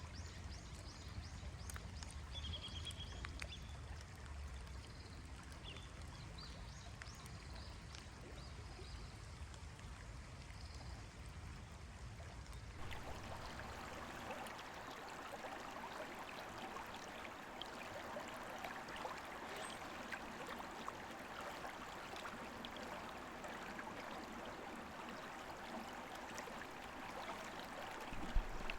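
Koma River water flowing over a shallow, rocky bed. For the first part it is a soft rushing under a low rumble, with birds chirping now and then. About thirteen seconds in it changes abruptly to a louder, fuller babble of the stream.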